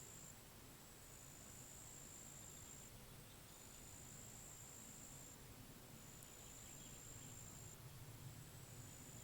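Faint high-pitched insect trilling in long phrases of about two seconds, each broken by a short gap, over a faint low rumble.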